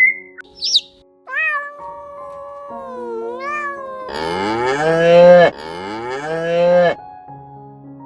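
An animal calling several times: a short call about a second in, a wavering one around three seconds, then two long, loud calls back to back. Soft background music plays underneath.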